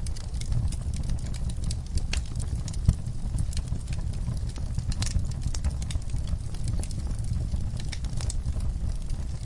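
Wood fire crackling in a fireplace: irregular sharp crackles and pops over a steady low rumble, with one louder pop about three seconds in.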